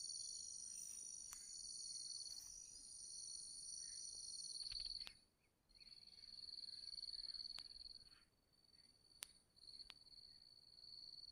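Several insects chirring in steady high-pitched trills at a few different pitches, stopping briefly about five seconds in and again near eight seconds, with a few faint sharp clicks.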